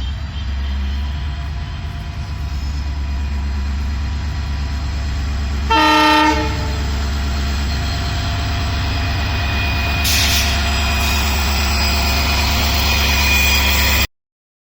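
Freight train running through at speed: the steady rumble of a WAG-9HI electric locomotive and its BCNA covered wagons on the rails, with one short horn blast about six seconds in. The sound cuts off abruptly near the end.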